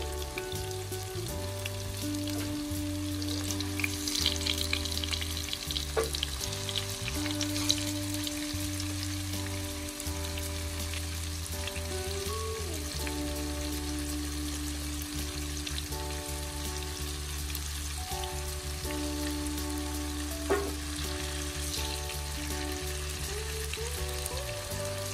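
Tofu cubes shallow-frying in hot oil in a pan: a steady sizzle with fine crackles, and two sharp clicks as the chopsticks turn pieces against the pan. Under it, soft background music of long held notes.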